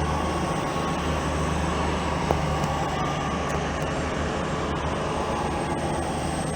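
TransPennine Express class 802 bi-mode train pulling out of the station, a steady low hum and rumble.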